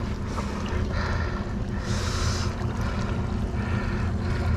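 Boat motor running steadily with a low hum, while short hissing rushes of water come and go, the strongest about two seconds in.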